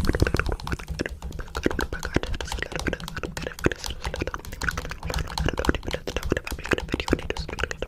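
A dense, irregular run of rapid clicks and taps.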